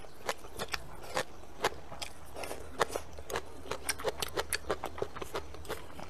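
Close-miked eating: chewing and mouth smacks, heard as a string of short sharp clicks that crowd into a quick run around four seconds in.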